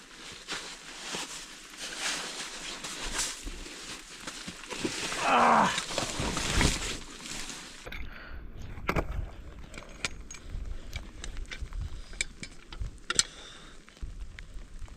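Blizzard wind blustering on the microphone with crunching and knocking in the snow. A brief falling tone comes about five seconds in, and about eight seconds in the sound changes suddenly to duller, scattered crunches.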